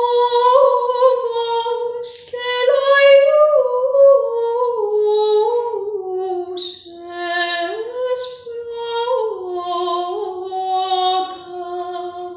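A woman singing a slow Greek traditional song unaccompanied. The melody is ornamented and steps gradually downward, in phrases with short breaks between them.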